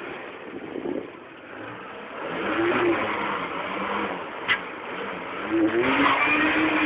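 Ford Mustang engine revving in bursts as its rear wheel spins in deep snow, the engine pitch climbing about two seconds in and the revving louder near the end.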